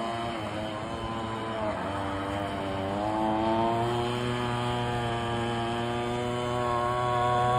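Small two-stroke marine engine, a clone of the 26 cc Zenoah G260PUM, running in an RC boat on its first run. Its pitch dips about one and a half seconds in, picks back up around three seconds, holds steady, then rises a little near the end.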